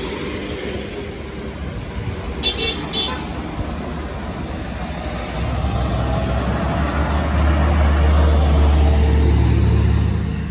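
Heavy sugarcane truck-and-trailer engine rumbling deep and loud as it approaches, building from about halfway and easing off near the end, with two short high-pitched toots a few seconds in.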